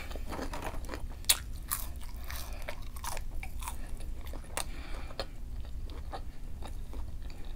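A person chewing and biting crunchy fried food close to the microphone: scattered small crunches and mouth clicks, one louder crunch about a second in.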